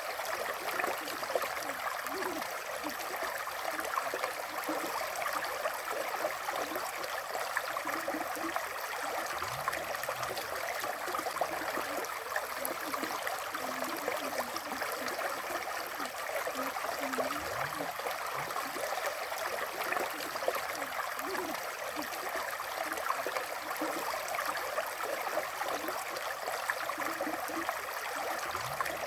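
River water flowing steadily: a continuous rushing, splashing wash with a few low gurgles.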